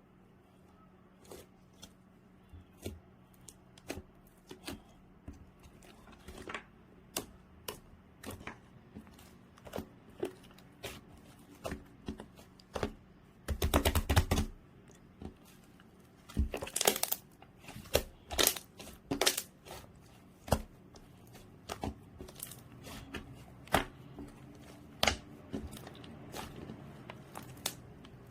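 Two-tone slime being pressed, poked and stretched by hand, making a string of sharp clicks and crackly pops, with denser, louder crackling in bursts from about halfway through.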